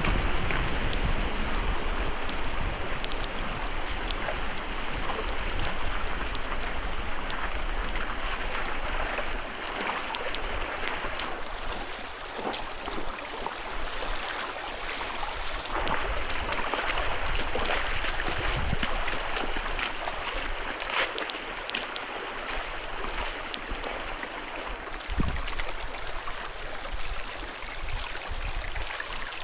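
Steady water noise with splashing and gurgling around a kayak on the river, continuing through several cuts between clips.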